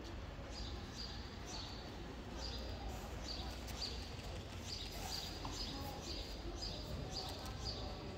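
A small bird chirping repeatedly, short high chirps of one pitch at about two a second, over a steady low hum.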